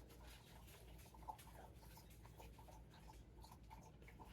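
Near silence: room tone with faint small rustles and soft ticks, one a little stronger about a second in.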